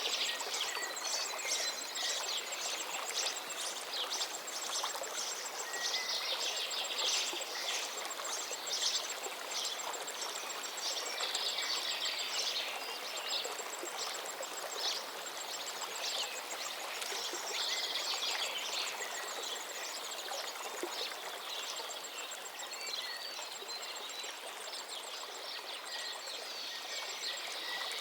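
River water flowing steadily, with songbirds singing over it in repeated short chirps and trills, and a thin, rapid high-pitched trill running through much of it.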